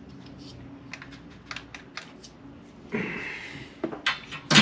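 Light, scattered clicks and taps of small parts and tools being handled on an RC car chassis. Near the end come a couple of short, louder bursts.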